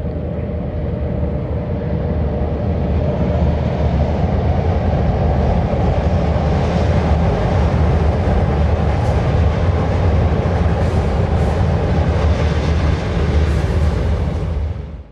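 Sydney double-deck electric passenger train crossing a steel girder railway bridge: a loud, steady low rumble of wheels on the bridge that builds over the first few seconds. A few brief high hisses come in the second half, and the sound cuts off suddenly at the end.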